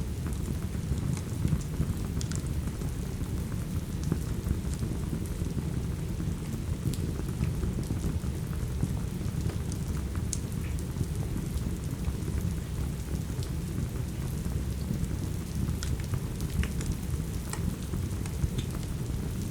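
Steady rain with a deep, even rumble underneath, mixed with a crackling wood fire that gives scattered sharp pops and ticks.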